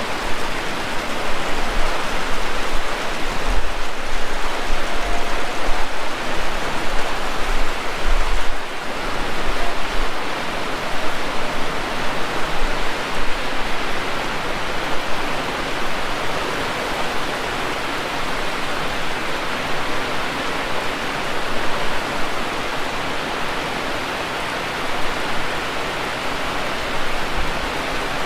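Heavy rain falling steadily, a dense even hiss, with occasional low rumbles in the first ten seconds.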